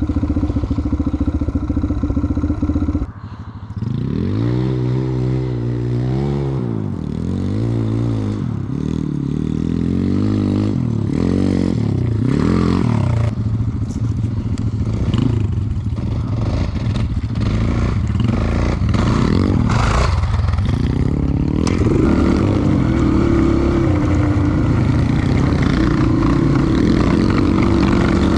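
Dirt bike engine being ridden, with its pitch rising and falling again and again as the throttle is opened and closed, and a brief dip about three seconds in. Near the end it holds a steady, high pitch.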